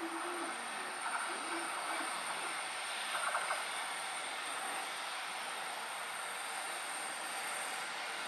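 JR Freight container train running past, a steady noise of wheels on the rails, with brief louder bursts about one second and three seconds in.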